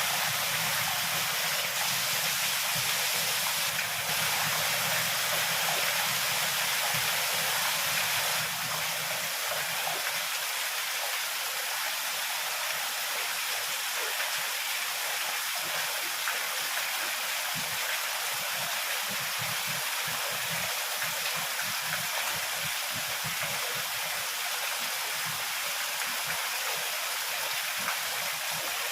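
Heavy rain falling in a steady hiss, with a low rumble underneath and the sound a little louder for the first eight seconds or so.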